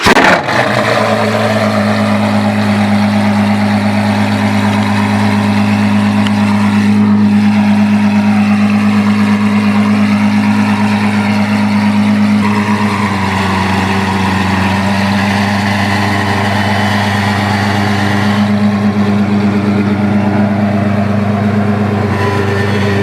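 Apollo IE's Ferrari-derived naturally aspirated V12 just fired up and idling loud and steady, with no revving; the idle note shifts slightly about halfway through.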